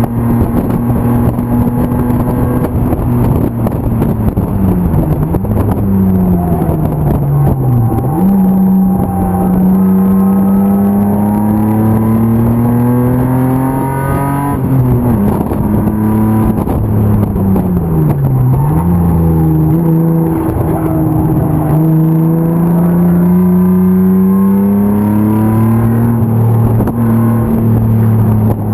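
BMW E36 race car's M50 inline-six engine under racing load. It holds high revs, drops twice through dips in pitch as the car brakes and shifts down, then climbs steadily for several seconds each time before levelling off.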